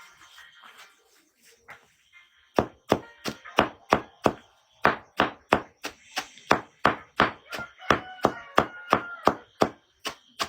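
Rapid chopping strikes of a blade on wood, about three a second, starting about two and a half seconds in, with a brief pause midway.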